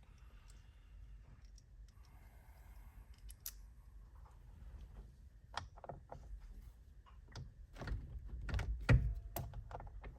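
Scattered clicks and knocks of an 8mm socket wrench being worked on the steering wheel's airbag screws, with a louder knock about nine seconds in.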